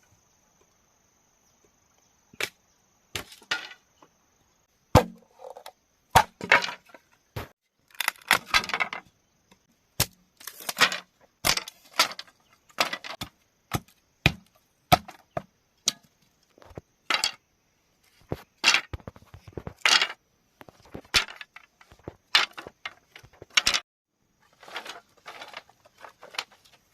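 Bamboo being struck and worked: irregular sharp wooden knocks and cracks, singly and in short clusters, roughly one or two a second. They start a couple of seconds in.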